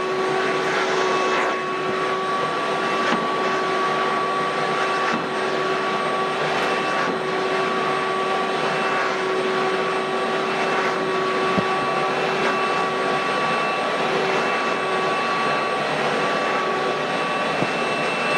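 Ridgid WD1450 wet/dry shop vacuum running steadily, its motor giving a whine of several steady tones over a loud rushing of air.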